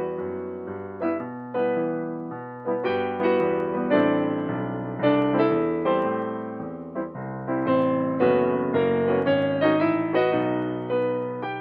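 Solo piano playing a slow, gentle arrangement of a pop ballad, chords and melody notes struck and left to ring and fade.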